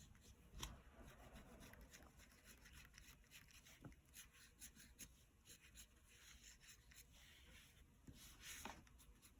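Faint scratching and rubbing of colouring strokes on paper, just above near silence, with a few slightly louder strokes about half a second in and near the end.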